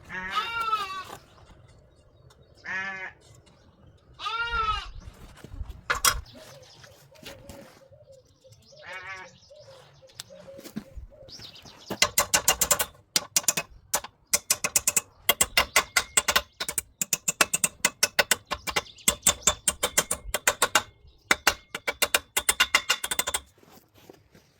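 Bleating, heard as short wavering calls several times in the first half. From about halfway, a fast run of sharp taps or strikes, several a second, takes over and is the loudest sound.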